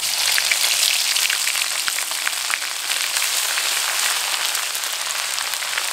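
Garlic paste sizzling and crackling in hot mustard oil in a kadai, starting abruptly as the paste goes in and then frying steadily with many small pops.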